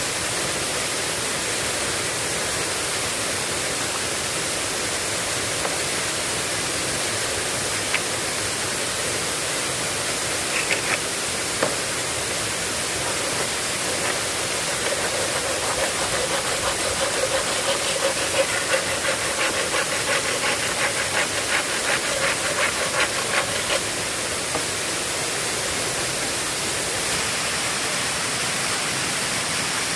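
Steady rushing noise of heavy rain. Roughly halfway through, a fast run of ticks over a faint tone sounds for several seconds.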